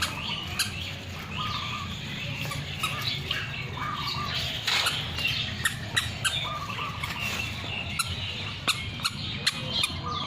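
Many birds squawking and calling over one another, with short repeated calls and sharp clicks scattered throughout, over a steady low hum.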